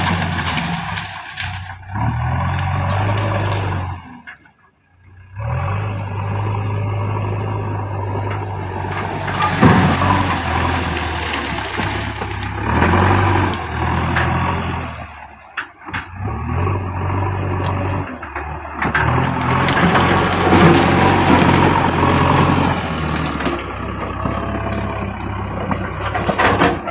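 JCB backhoe loader's diesel engine running under varying load, with scraping and occasional knocks as it works soil off rock. The sound breaks off briefly twice.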